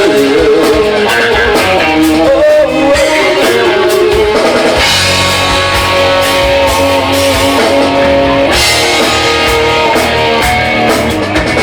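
Rock band playing an instrumental passage between sung lines: guitar over bass and drum kit.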